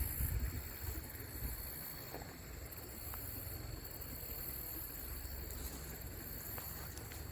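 Low, uneven rumble of wind on the microphone, with two faint steady high tones above it.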